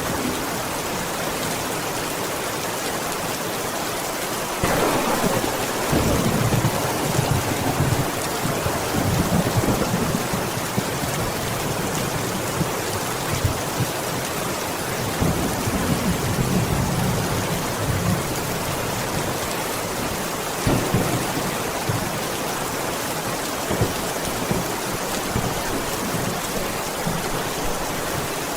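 Steady rain, with thunder breaking in about five seconds in and rolling on for several seconds, then rumbling again twice later.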